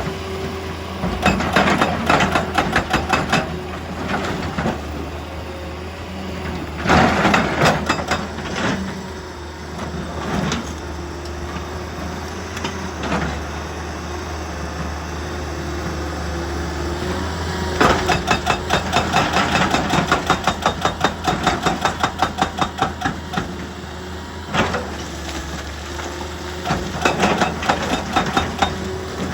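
Heavy rock-working machinery running with a steady low hum. Four bursts of fast, regular pounding on rock come at about four blows a second, the longest lasting about five seconds in the second half.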